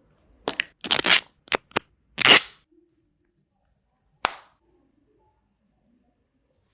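Phone box and packaging handled during an unboxing: a quick run of sharp cracks and snaps in the first two and a half seconds, the loudest a short scrape-like crack near the end of the run, then one more snap about four seconds in.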